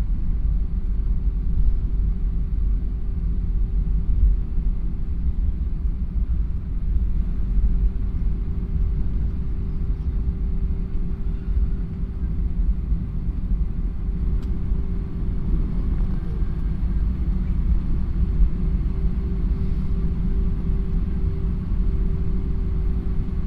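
Steady low rumble of an Airbus airliner after landing, with a steady mid-pitched tone running through it.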